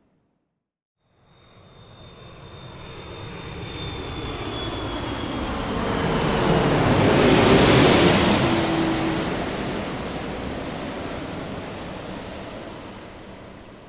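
An airplane flying past: after a second of silence its engine noise swells, peaks about eight seconds in and fades away, with a high whine and a lower hum that drop in pitch as it passes.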